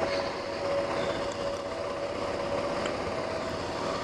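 Suzuki V-Strom 650's V-twin engine running at a steady cruise, with wind and road noise from riding on a gravel road.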